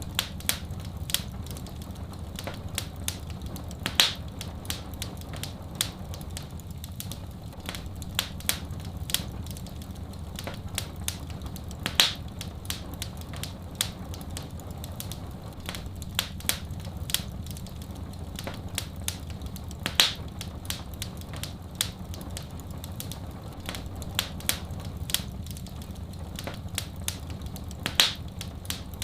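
Wood fire in a fireplace crackling: a constant patter of small sharp cracks over a steady low rumble, with a louder pop about every eight seconds.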